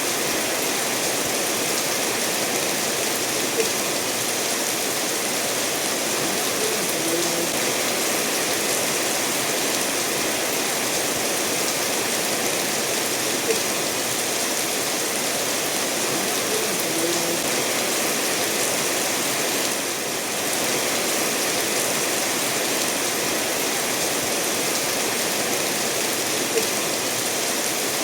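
Steady rainfall mixed with a stream flowing over stones, an even continuous hiss. A few single sharp taps stand out three times.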